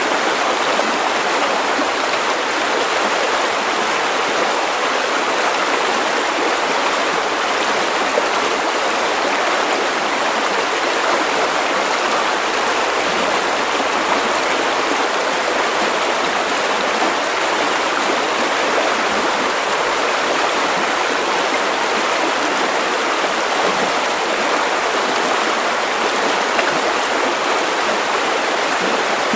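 River water running over stones, a steady rushing and babbling that keeps an even level throughout.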